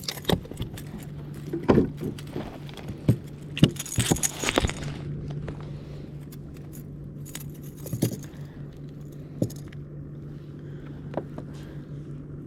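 Metal fishing tackle clinking and rattling as a freshly caught trout is handled and unhooked, with a cluster of rattles in the first five seconds and then scattered single clicks. A low steady hum runs underneath.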